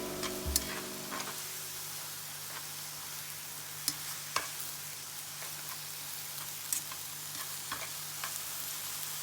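Food sizzling in a frying pan, a steady hiss, with a few sharp clicks of a utensil stirring against the pan.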